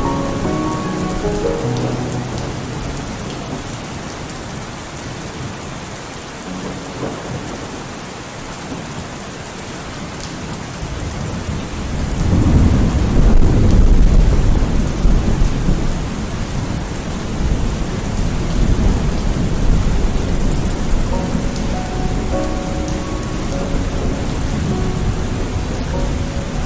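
Heavy rain falling steadily, with a long low rumble of thunder swelling about twelve seconds in and dying away over several seconds.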